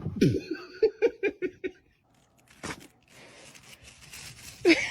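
A person laughing in a quick run of short bursts over the first second and a half, then a faint hiss and a brief rising cry near the end.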